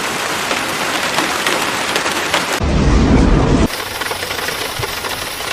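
Heavy rain and hail pelting down: a dense steady hiss with scattered sharp hits. About two and a half seconds in it cuts to a loud low rumble for about a second, then back to steady rain.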